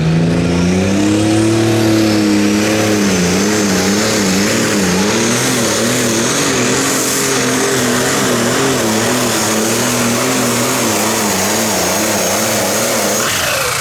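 A pulling tractor's diesel engine running flat out under load during a pull. Its pitch wavers up and down over a steady high whine that climbs in the first two seconds and then holds. The engine note drops away near the end.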